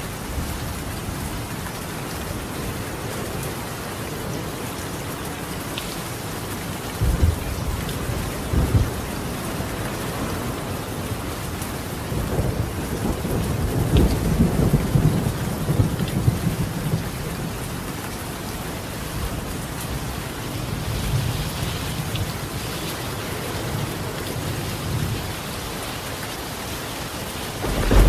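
Steady rain on a tiled roof with thunder: two short claps about seven and nine seconds in, a longer rumble through the middle and a softer one later.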